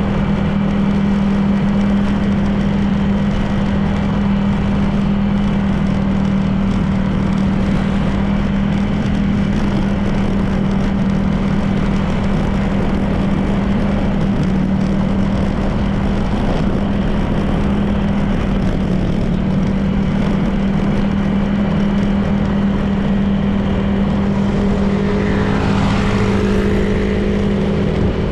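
Honda PCX 160 scooter's single-cylinder engine running at a steady cruise, with a constant low hum and road and wind noise. Near the end another vehicle's engine passes, changing in pitch as it goes by.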